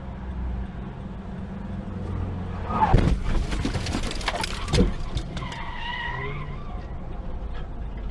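Car collision heard through a dashcam: steady road and engine rumble, then skidding tyres and a loud crash about three seconds in, a second bang near five seconds, and a brief wavering squeal after it.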